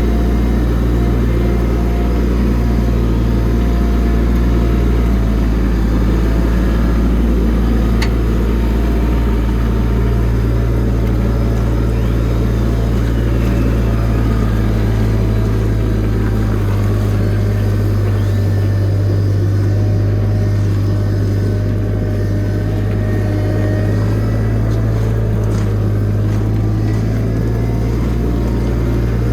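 Forklift engine running steadily under load. Its low note shifts about halfway through.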